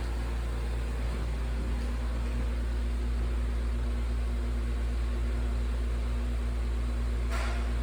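Antique brass ceiling fan with cane blades running steadily, its motor giving a low hum and a steady tone, with some bearing noise from the motor. A brief rustle comes near the end.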